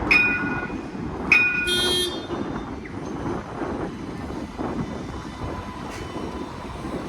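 Sydney light rail tram's warning bell dinging twice, about a second apart, the second ring brighter and longer, over the low rumble of vehicles at the stop.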